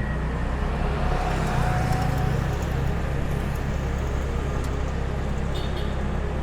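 Motorbike engine running at a steady pace while riding, with road noise.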